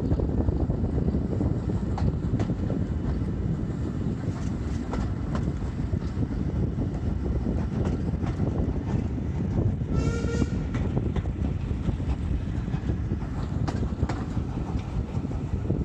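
Steam train hauled by a Hunslet Austerity 0-6-0 saddle tank locomotive on the move: a steady heavy rumble with scattered light clicks, and a brief high-pitched tone about ten seconds in.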